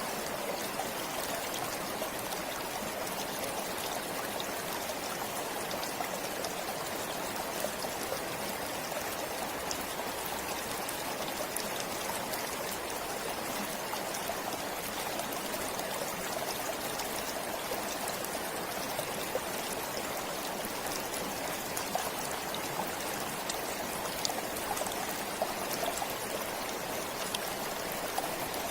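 Forest stream flowing steadily, an even rushing and trickling of water with small splashes and droplets.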